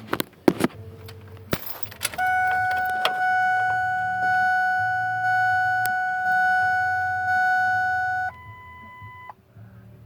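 Keys jangling and a few clicks, then the dashboard warning chime of a 1999 Ford 7.3 diesel truck ringing about once a second for six seconds. The chime is followed by a shorter, different steady beep that stops after about a second. The engine does not crank or run.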